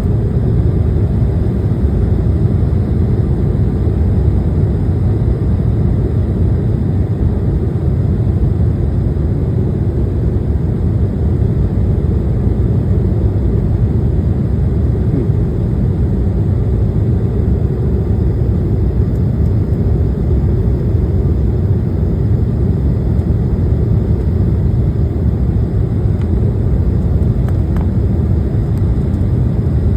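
Steady low rumble inside an airliner's cabin in flight: jet engine and airflow noise heard from a passenger seat, unchanging throughout.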